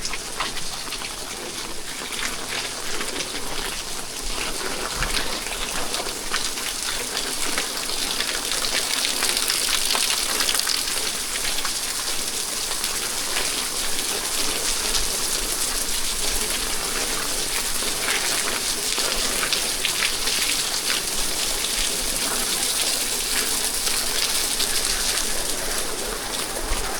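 Steady rain falling, a dense hiss with many close individual drops pattering; it grows a little heavier about a third of the way in.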